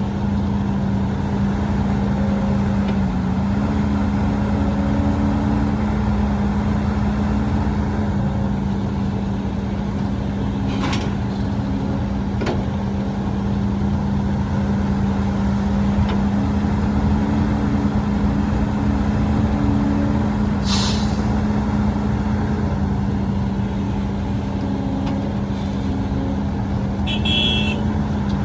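Heavy diesel earthmoving machinery running steadily at a constant engine speed. There is a short hiss about two-thirds of the way through and a brief high beeping near the end.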